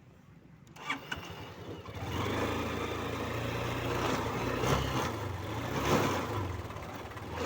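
Hero Karizma ZMR motorcycle engine starting: a couple of clicks about a second in, then the engine catches about two seconds in and runs steadily with a few brief swells.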